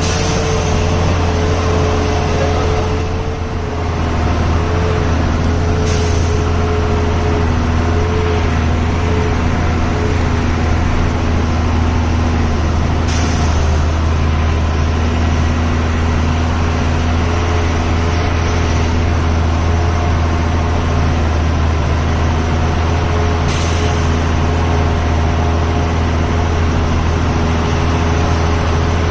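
Heavy truck's diesel engine running steadily as the truck drives, with three short hisses about 6, 13 and 24 seconds in.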